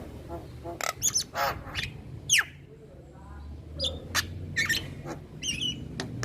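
Male Javan myna calling in a quick run of short harsh notes, chirps and whistles, with one sharp downward-sweeping whistle about two seconds in.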